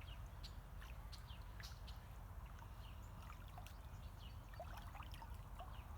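Small creek trickling faintly, with scattered light splashes and plinks of water.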